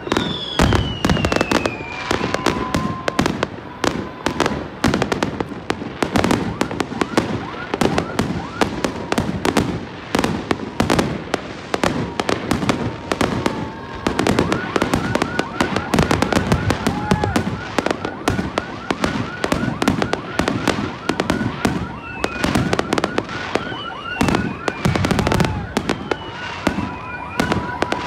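Aerial fireworks going off in a continuous barrage of bangs and crackles, many shots a second with no pause.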